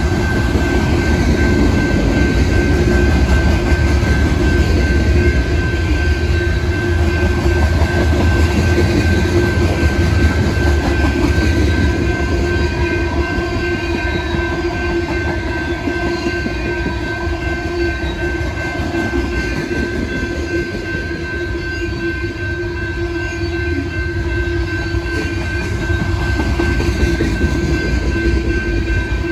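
A loud freight train rolling past close by: a steady rumble of cars and wheels on the rails, with a steady high tone running throughout.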